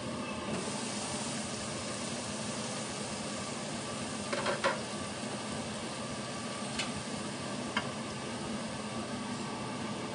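Shredded young papaya and chillies frying in a wok, a steady sizzle, with a few short clicks of a metal spatula against the wok about halfway through.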